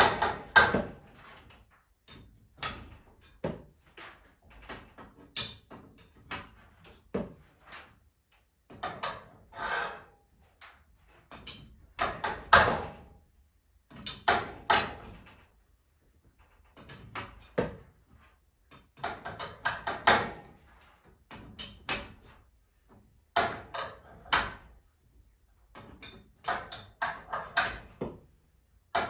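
Irregular knocks, clanks and rattles of hand tools working on garage door torsion spring hardware, some single and some in quick clusters.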